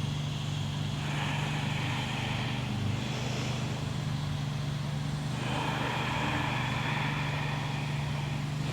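Steady low background hum with a rushing hiss that swells twice, of the kind made by distant road traffic.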